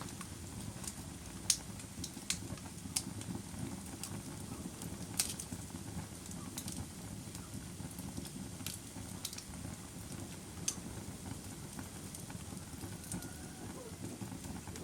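Campfire crackling: sharp, irregular pops and snaps over a steady low rumble of burning wood.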